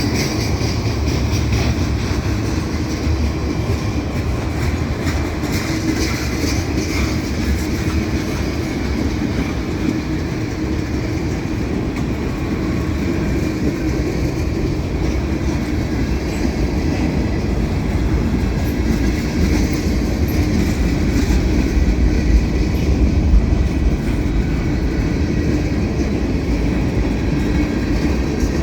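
Freight train cars rolling past steadily, a continuous low rumble with the wheels clicking over the rail joints.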